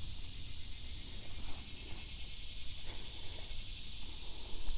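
Steady outdoor ambience: an even high hiss over a low rumble, with cars crossing a nearby bridge faintly audible.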